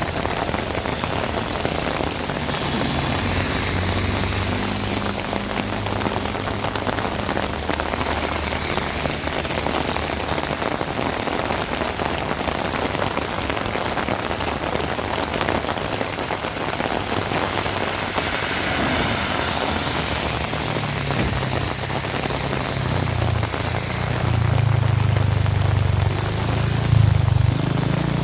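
Heavy rain falling steadily. A low rumble joins it and grows louder over the last several seconds.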